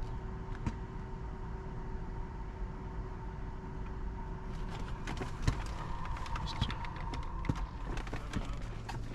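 Light clicks and taps of hands working at the car's dashboard and newly installed head unit, starting about halfway through, over a steady low hum.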